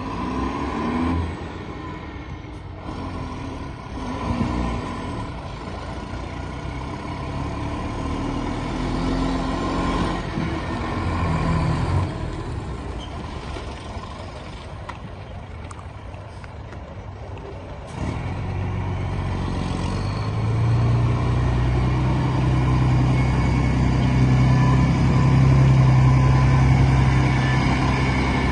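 Diesel engine of a 1997 Mercedes 1820 box truck running, its pitch shifting now and then. About two-thirds of the way through it becomes louder and settles into a steady, low-pitched run.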